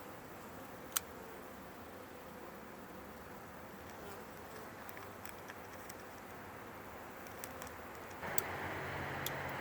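Honeybees from a newly installed package buzzing steadily around the hive, with a sharp click about a second in and a few light ticks. About eight seconds in a louder steady mechanical rumble joins.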